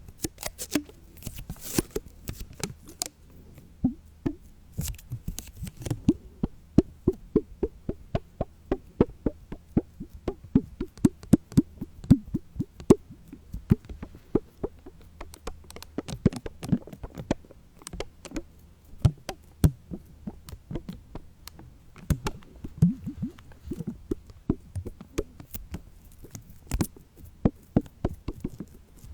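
A long run of short soft taps and knocks, some in quick runs of two or three a second, with lighter clicks between them.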